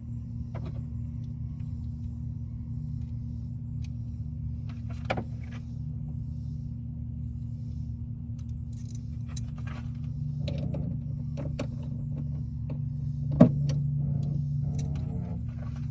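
Metal hand tools and sockets clinking and knocking, with one sharp knock about thirteen seconds in, over a steady low hum.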